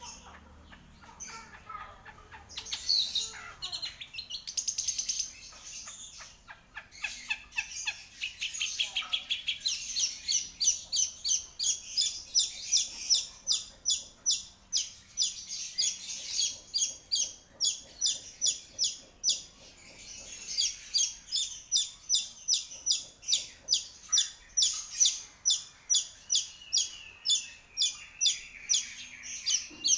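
Long-tailed shrike singing: a varied high phrase at first, then a long run of sharp, high repeated notes, about four a second, ending in a short held whistle.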